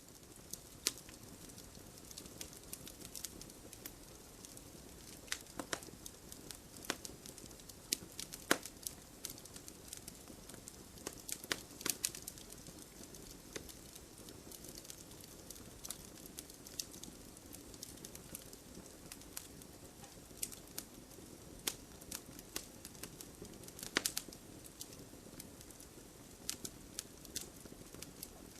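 Wood fire burning in a fireplace: logs crackling with irregular sharp snaps and pops, some louder than others, over a steady low rush of the flames.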